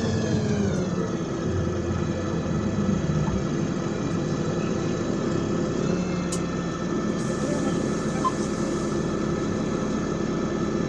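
Interior sound of a LiAZ 5292.65 city bus slowing down: its drivetrain whine falls in pitch for about the first second and a half, then settles into a steady engine hum and rumble.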